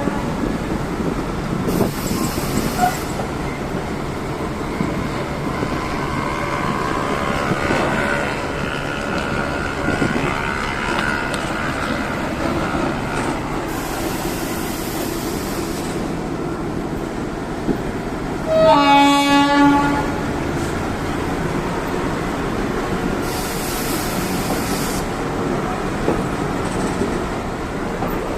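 A passenger train running along the track, with its horn sounding once for about a second, roughly two-thirds of the way in.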